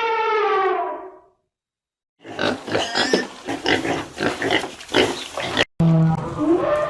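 Animal calls in quick succession: a long pitched call ends about a second in, then after a short silence a rapid run of short rough grunts and squeals, then after an abrupt cut another pitched, wavering call.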